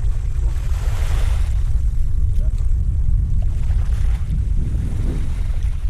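Wind buffeting the microphone in a steady low rumble, over water washing at the shore, with a brief rush of splash-like noise about a second in.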